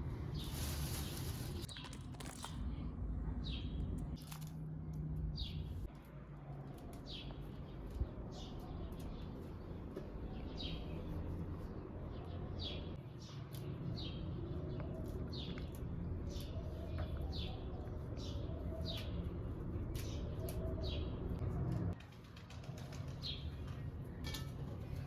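A bird calling over and over, a short falling chirp about once a second, over a steady low rumble. A brief noisy rush about a second in.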